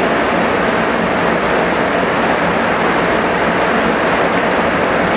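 Heavy rain falling, a steady, even hiss that does not change.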